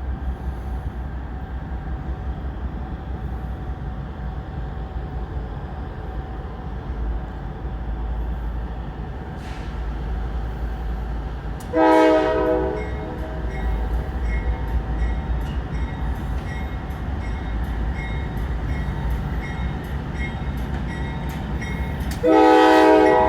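Diesel locomotives of a loaded coal train rumbling past with a steady low drone; the air horn sounds twice, each blast about a second long, about halfway through and again near the end. A faint, even clicking of wheels runs on after the first blast.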